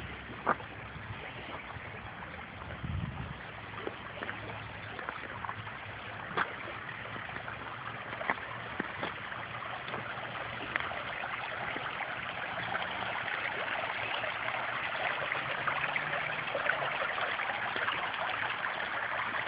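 Stream water running over rocks, a steady rushing that grows gradually louder, with a few faint clicks.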